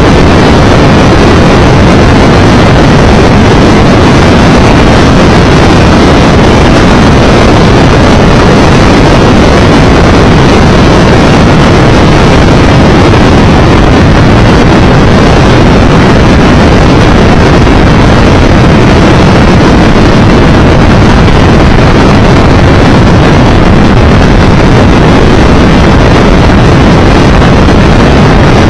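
Loud, steady wind rush buffeting the microphone on a moving motorcycle at road speed, with the Triumph Tiger Explorer 1200's running noise blended underneath and no change throughout.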